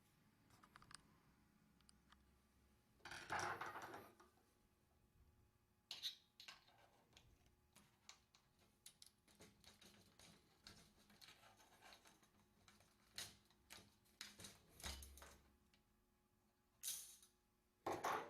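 Faint, scattered small clicks and rustles of handling, with a few louder scraping bursts about three seconds in and again near the end.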